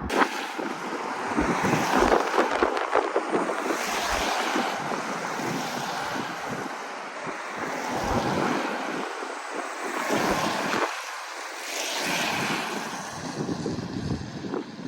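Wind buffeting the microphone: an irregular rushing noise that swells and fades in gusts.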